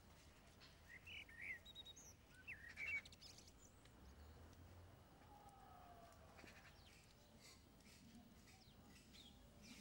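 Quiet outdoor ambience with a few short bird chirps, clustered between one and three seconds in and one more near the end.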